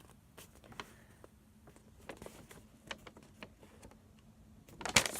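Light handling noises, a scattering of faint small clicks and taps, then a louder rustle of paper or packaging near the end as the sheet is handled.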